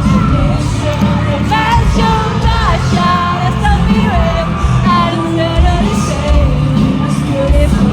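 Live pop-rock concert music: a full band with a voice singing the melody, mixed with shouts from the crowd.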